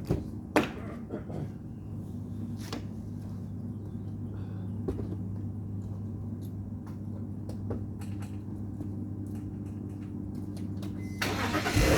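Steady low hum with scattered light clicks, then about eleven seconds in a sudden louder rush as the 2000 BMW 328i's 2.8-litre straight-six is started cold after sitting about 36 hours, settling into a louder steady run.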